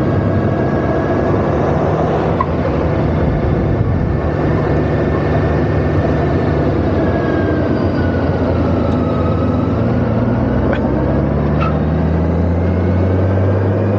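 Motorcycle engine running under way, with steady wind and road noise. The engine pitch climbs over the last few seconds as the bike accelerates.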